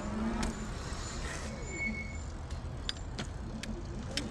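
Electric trike ridden on throttle: its motor whine rises and falls over steady rolling and wind noise, with several sharp clicks or rattles.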